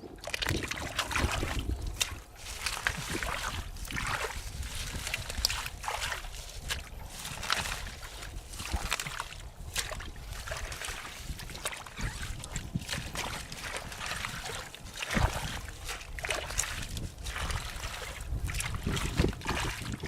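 Water splashing and sloshing in irregular bursts, as in wading or groping about in shallow water.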